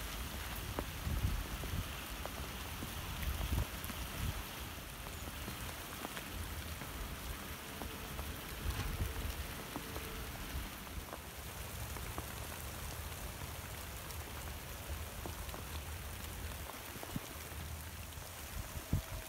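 Steady rain, drops ticking on a galvanized corrugated-steel fence sheet.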